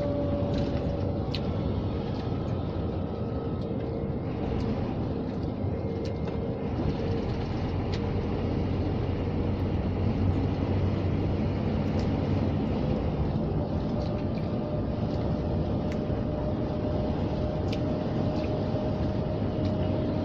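Scania G460 truck's straight-six diesel engine running, heard inside the cab: a steady drone with a faint whine that dips early on and climbs slowly in pitch through the second half.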